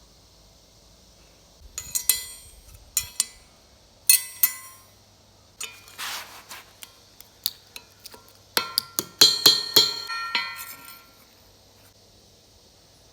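Metal parts and tools clinking and knocking together in scattered bursts, with a short ringing after each hit. A brief hiss comes about six seconds in, and the busiest run of clinks falls near the end.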